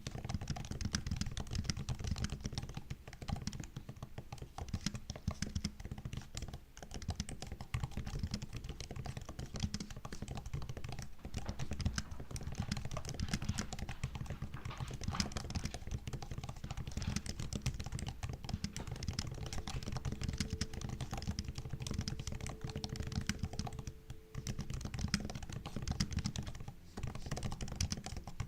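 Continuous fast typing on a MacBook's low-profile laptop keyboard, a dense stream of soft key clicks with brief pauses now and then.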